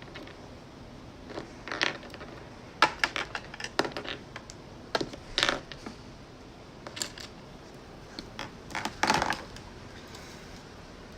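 Small hard-plastic miniature toy items being placed into a toy fridge: light clicks, taps and brief scrapes in scattered clusters, the loudest cluster near the end.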